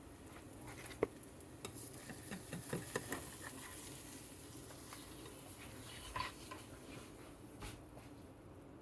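Food sizzling in a frying pan, with a few sharp clicks and scrapes of a utensil against the pan; the sizzle dies down near the end.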